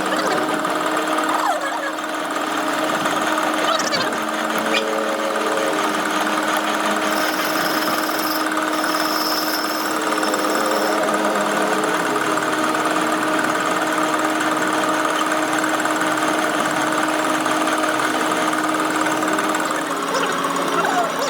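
A motor-driven workshop machine running steadily at an even pitch.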